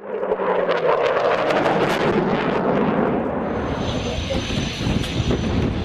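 Dassault Falcon 7X business jet's three turbofan engines during a low display pass: a loud, steady rushing jet noise that cuts in suddenly, with a high turbine whine joining about halfway through.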